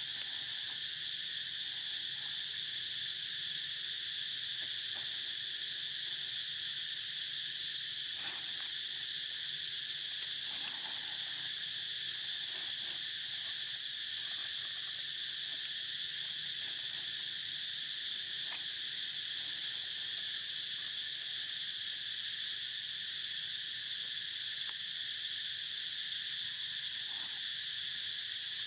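Steady, high-pitched insect chorus droning without a break, with a few faint brief sounds scattered through it.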